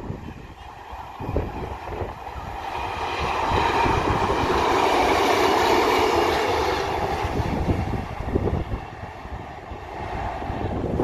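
A two-car Class 150 Sprinter diesel multiple unit passes close by, its engine and wheels on the rails growing louder, then fading as it runs away. Wind buffets the microphone at the start and again near the end.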